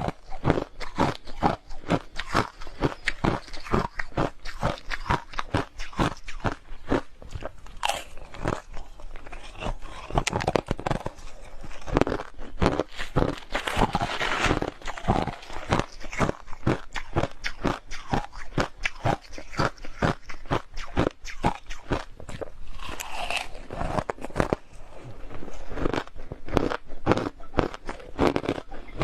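Hard crushed ice being bitten and chewed close to the microphone: a fast, continuous run of sharp crunches and cracks.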